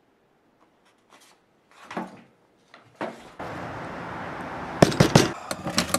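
Knocking on a door: a quick run of sharp raps about five seconds in, after a few soft bumps and clicks.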